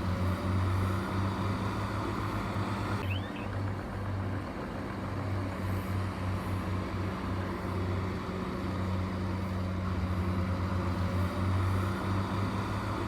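Heavy diesel engine of earthmoving equipment running steadily with a low, slightly pulsing drone.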